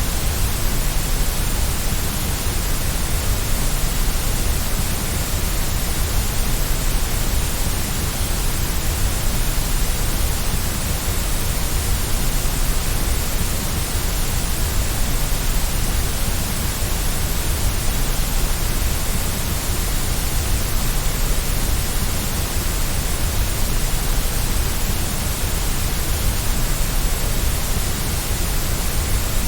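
Steady white noise: an even, unchanging hiss with a strong low rumble beneath it.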